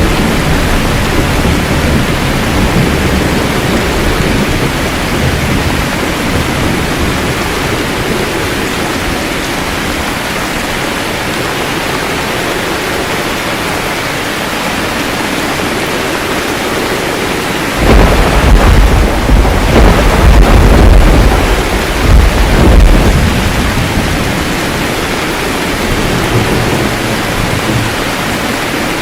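Steady heavy rain, with a loud low crack and rumble of thunder breaking in past the middle and rolling on for several seconds before fading back into the rain.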